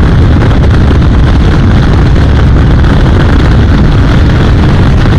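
BMW R 1250 RT motorcycle on the move: a loud, steady rumble of its boxer-twin engine mixed with wind noise.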